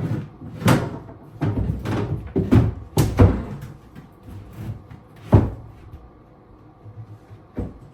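Wooden vanity cabinet knocking and thudding as it is shifted and pushed into place: a quick run of irregular knocks through the first five seconds, the loudest just after five seconds in, then only a couple of faint knocks.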